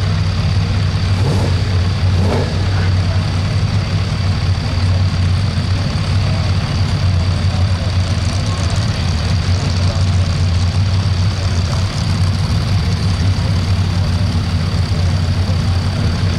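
Stock gas truck engine, a 1976 Ford F-350's, running loud and steady with a constant deep drone and a thin high whine over it.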